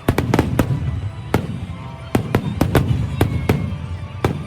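Aerial fireworks bursting: a rapid, irregular string of sharp bangs, some in quick clusters of two or three, over a continuous low rumble from the barrage.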